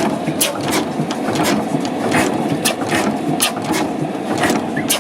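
Allen stationary oil engine running, with a steady mechanical clatter and sharp clicks repeating two or three times a second.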